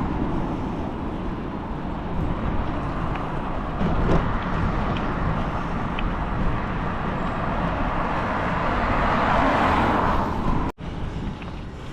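Steady rushing noise of a mountain bike ride along town roads: wind on the microphone mixed with road and traffic noise. It swells near the end, then cuts out for an instant about a second before the end.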